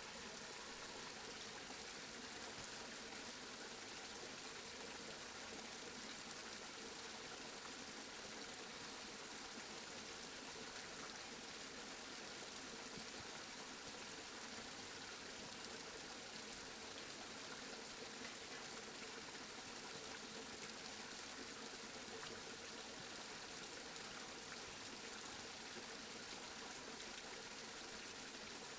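Steady rain, a soft even hiss that does not change.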